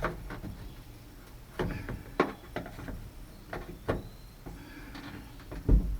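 Scattered knocks, clicks and clunks from working the pickup's outside door handle and latch parts inside the door, with a heavier thump near the end.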